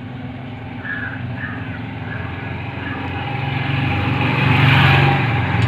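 Combine harvester engine running steadily, getting louder over the first five seconds and easing slightly near the end.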